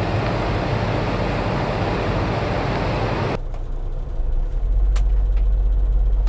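Semi truck's diesel engine idling. About three and a half seconds in, the sound changes abruptly to a deep, steady low drone with a few clicks.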